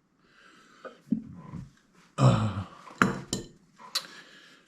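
Small metal and plastic RC shock parts clicking and clinking as they are handled and fitted, several separate clicks with the loudest about two seconds in.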